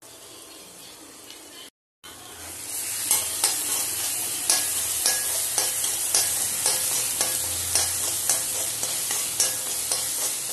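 Chopped onions and tomato sizzling as they fry in oil in a kadai, stirred with a steel spoon that scrapes and clicks against the pan about twice a second. A quieter sizzle at the start cuts off briefly, and the louder frying and stirring come in about two seconds in.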